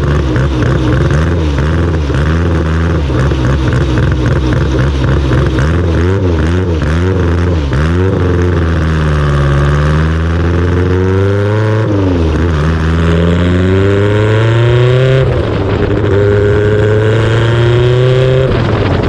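Honda K24 stock-block four-cylinder in a CRX race car, heard onboard. The engine runs at low revs with a wavering, pulsing note for the first half. It then drops and rises a few times as the car moves off, climbs steadily under acceleration, changes abruptly about three-quarters in, and settles to a steadier, higher note.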